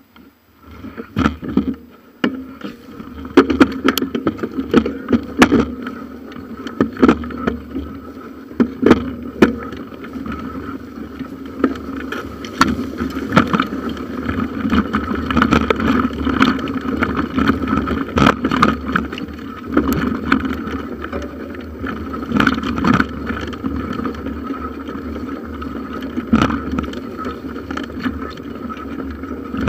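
Bicycle rolling over a forest trail, picked up by a handlebar-mounted camera: a steady rolling noise with frequent sharp knocks and rattles from bumps in the track.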